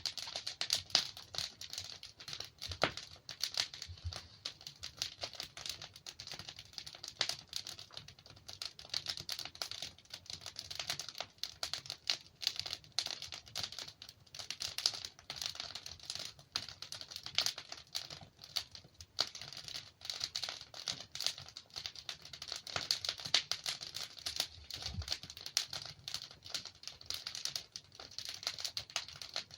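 Wood fire crackling: a dense, irregular run of small sharp crackles, with a few louder pops among them.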